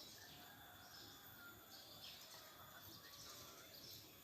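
Faint outdoor ambience: scattered short bird chirps and insect calls over a low steady hiss.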